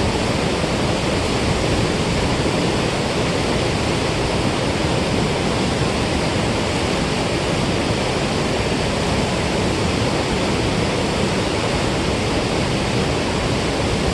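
Steady, loud rush of water released through a dam spillway.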